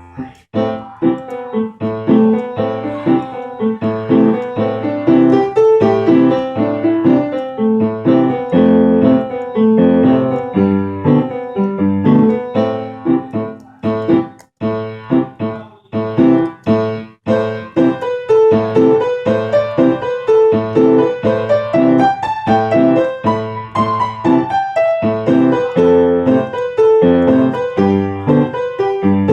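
Solo piano music, many notes played in quick succession, each ringing and fading after it is struck.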